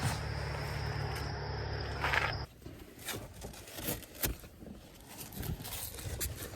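Steady low hum of a pickup truck driving, heard from inside the cab, which cuts off suddenly about two and a half seconds in. After that come only faint, scattered clicks and rustles.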